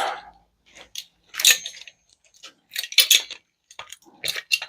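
Small metal parts of a microwave magnetron being handled and dismantled by hand: a string of short, irregular metallic clinks and taps, one about a second and a half in ringing briefly.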